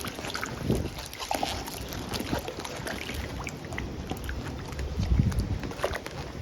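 Typhoon wind buffeting the microphone in a low rumble, with water splashing and small knocks of turtles feeding in their pond. A stronger gust comes about five seconds in.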